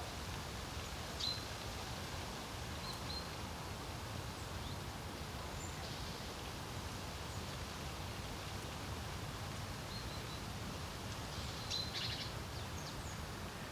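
Steady low wind rumble with a few short, high bird chirps scattered through it, busiest near the end.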